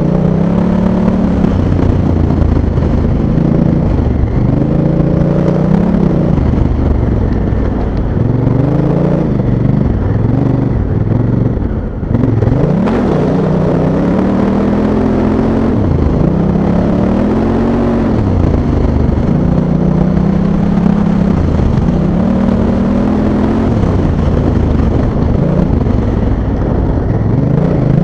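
Honda Africa Twin's parallel-twin engine under load on sand, the throttle opened and closed over and over so the engine note keeps rising and falling. About twelve seconds in, it briefly drops away, then picks up again.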